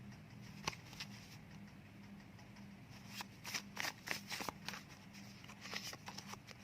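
Oracle and word cards being handled and flipped: scattered crisp flicks and taps, a couple early on, then a quick cluster in the middle and another near the end, over a faint steady hum.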